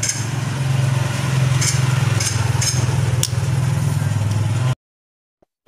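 A steady low mechanical hum, like a motor or engine running, with a few light metallic clinks over it, cutting off abruptly about three-quarters of the way in.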